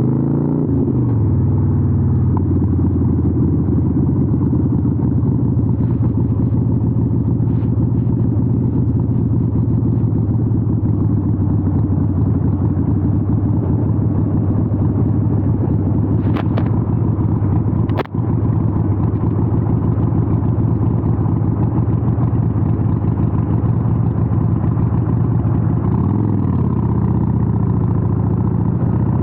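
Harley-Davidson 883N Sportster's air-cooled V-twin running through Vance & Hines exhausts at steady revs, the revs settling in the first second and changing briefly near the end. Two sharp clicks about two-thirds of the way through.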